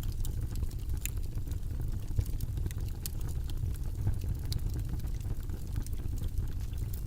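A steady, low rumbling white-noise background track, with scattered faint irregular clicks over it.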